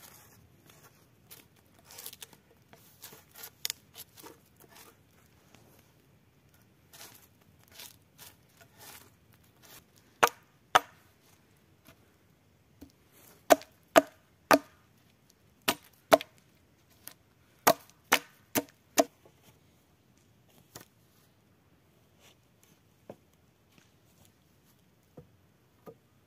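Wood being chopped by hand: about a dozen sharp blows, some in quick pairs, after some softer rustling and crackling, then a few lighter knocks near the end.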